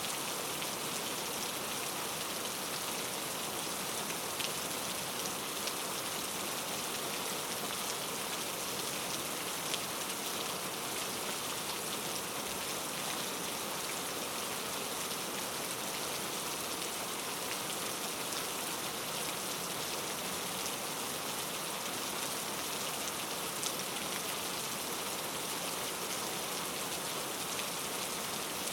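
Steady rain falling on a surface: an even hiss filled with many small drop ticks, a few of them a little louder.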